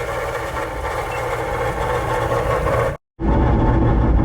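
Supercharged LS3 V8 of a Corvette Grand Sport running on a drive. About three seconds in, the sound cuts out for a moment and comes back as a louder, deeper engine sound.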